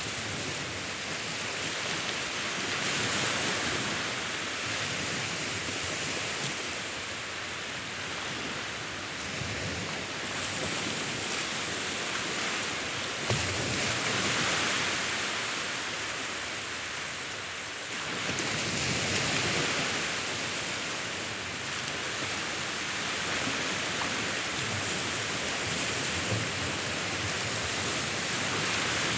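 Sea waves breaking and washing in a continuous surf hiss, swelling louder every several seconds and easing back between.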